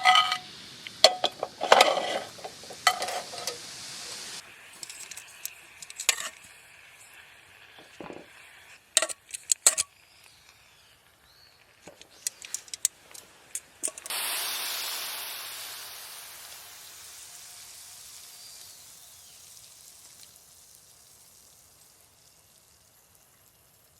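Metal utensil clinking and scraping against a pan as food is stirred, followed by scattered clicks. About halfway through, a hot pan starts sizzling loudly all at once, then slowly fades away.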